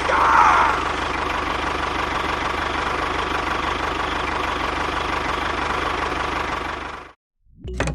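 A small motor on a DIY mini tractor running steadily with an even, rapid rattle and a faint steady whine. It cuts off suddenly about seven seconds in, and music begins just before the end.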